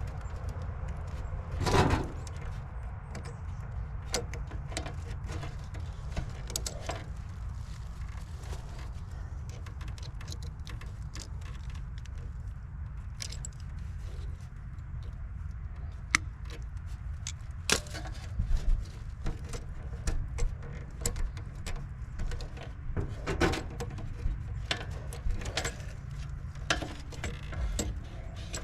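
Scattered metallic clicks, clinks and taps of hand tools and parts being handled, more frequent near the end, over a steady low hum.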